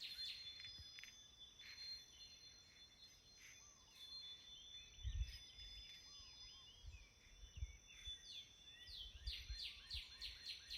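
Faint outdoor ambience with birdsong. A bird repeats fast runs of short, falling high notes at the start and again near the end, with scattered softer chirps in between. A few soft low thumps come through, the loudest about five seconds in.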